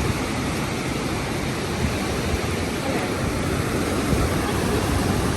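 Steady loud rush of ocean surf and wind on the microphone at the shore, with no clear breaking wave standing out. It cuts off suddenly at the very end.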